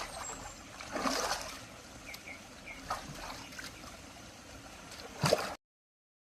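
Small river or stream flowing and trickling, with a louder splash about a second in and another near the end, after which the sound cuts off abruptly to silence.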